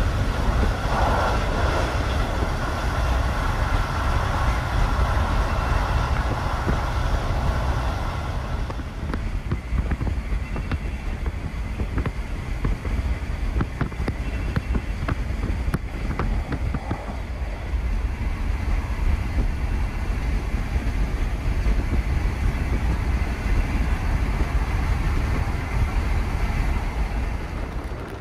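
Steady running noise of a passenger sleeping car at speed, heard from inside the train: a deep rumble of steel wheels on rail with rushing air. A run of light clicks comes through in the middle.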